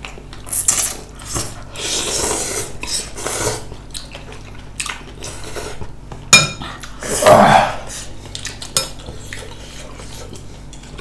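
Cutlery clinking and scraping against dishes during a meal, in irregular strokes, with a few sharp louder clinks a little past the middle.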